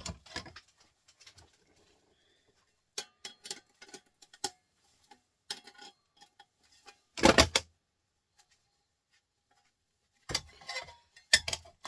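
Scattered clicks and light clatters of small printer parts being handled and taken apart by hand. A louder knock-and-clatter comes about seven seconds in, and another short burst near the end.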